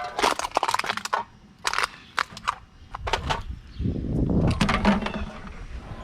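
Litter being picked up and handled: crunching and crackling in several short clusters, with a low rumble about four to five seconds in.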